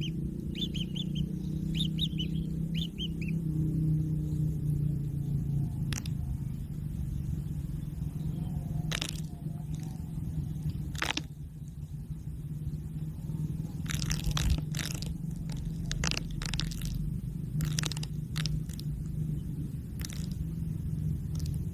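A steady low mechanical hum, like a motor running, throughout. A few short high chirps sound in the first three seconds, and scattered sharp clicks come from about six seconds on, bunched together in the last third.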